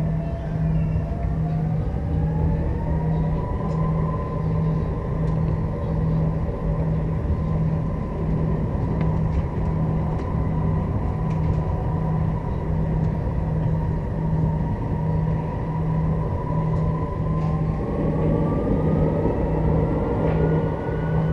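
Strasbourg Eurotram running, heard from on board: the electric traction motors give a whine that rises in pitch as it speeds up, holds steady at speed, then climbs again near the end. Under it is a steady rumble of the car on the track, with a low hum that pulses a little over once a second.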